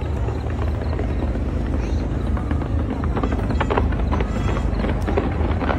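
Fireworks display: a continuous deep rumble of shells bursting, with sharp cracks crowding in again from about three seconds in.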